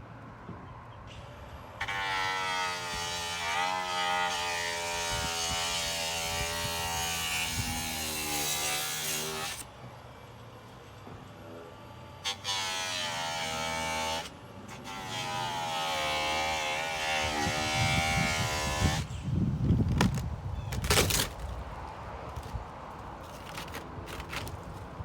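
Handheld electric power tool running in three long bursts, its pitch wavering as it works under load, followed by a few knocks and thumps near the end.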